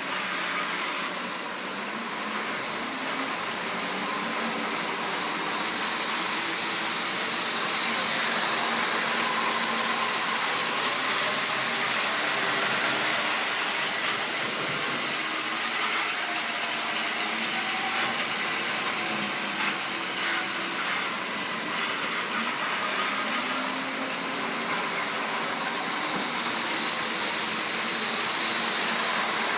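Model railway train running on the track: the locomotive's small electric motor whines and the wheels run on the rails, giving a steady rushing noise with a wavering hum.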